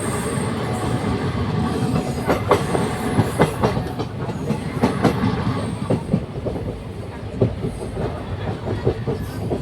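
Passenger train running, its wheels clattering over the rail joints with a steady rumble and a run of sharp knocks in the middle.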